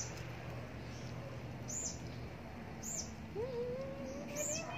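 A bird repeating a short, high chirp four times, about a second and a half apart. Over the last part a longer, lower call rises and wavers for more than a second, over a steady low background hum.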